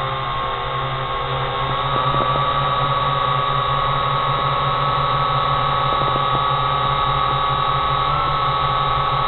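Drone propellers and motors whining steadily in flight, holding one pitch. A few faint pops come through underneath.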